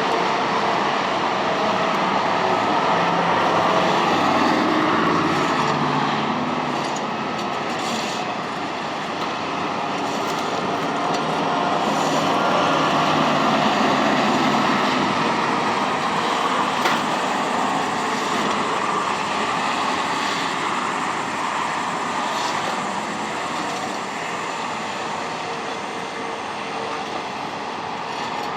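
Steady rumble and hiss of a moving vehicle, swelling and easing slightly in loudness.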